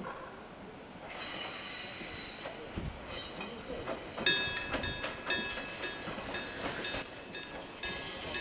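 Echizen Railway MC6101 single-car electric train rolling into a station, its wheels squealing in several high pitches that start about a second in and grow stronger about halfway through, with low knocks from the wheels and running gear.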